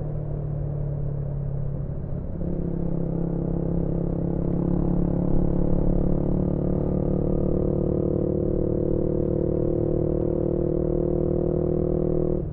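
Yamaha MT-125's single-cylinder engine with a GPR aftermarket exhaust, running steadily under way. Its pitch steps up a little about two seconds in, then holds.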